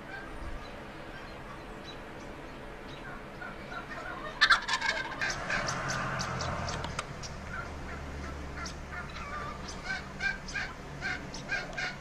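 Turkeys gobbling: a rattling gobble starts about four seconds in, followed by a run of short, quick notes at about two or three a second.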